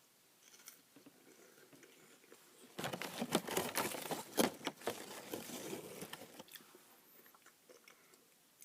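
A person biting and chewing a crispy wasabi-flavoured seaweed snack close to the microphone. A run of dry crunching starts about three seconds in and tails off a few seconds later.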